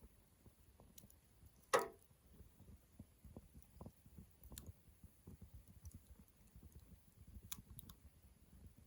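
Wood campfire crackling faintly with scattered small pops, and one loud pop about two seconds in.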